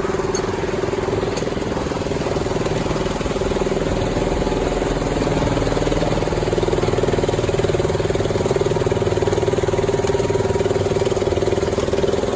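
A miniature railway locomotive's engine running steadily, a constant hum that grows a little louder about three seconds in.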